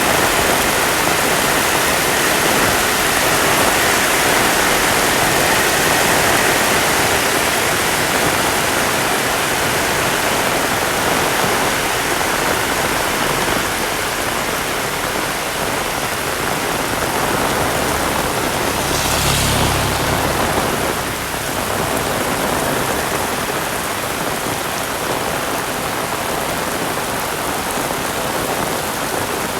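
Heavy rain falling steadily, a dense even hiss. About two-thirds of the way through, a brief low rumble passes beneath it.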